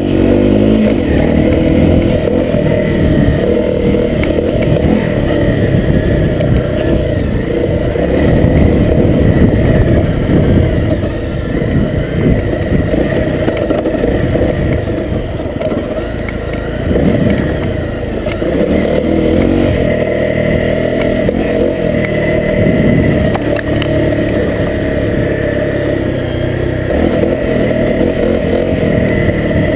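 Honda CRF250L dirt bike's single-cylinder four-stroke engine running while being ridden, its revs rising and falling with the throttle.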